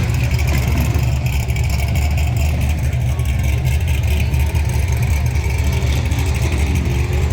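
Car engines idling in a steady low rumble, with faint voices in the background.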